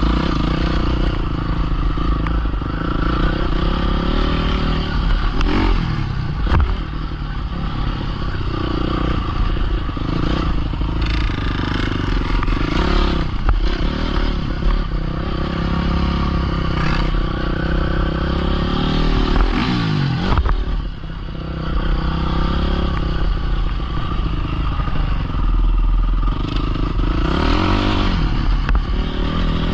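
Small-displacement pit bike engine running under riding, its revs rising and falling repeatedly as the throttle is worked, with knocks here and there.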